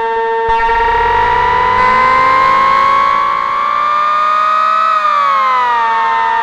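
Tubeohm Jeannie polyphonic DIY synthesizer holding a sustained chord whose pitch glides slowly upward for about four seconds, then slides back down near the end.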